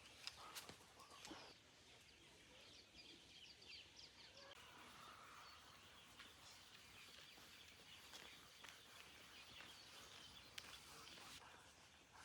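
Near silence: faint outdoor ambience with scattered faint bird chirps and a few light clicks in the first second or so.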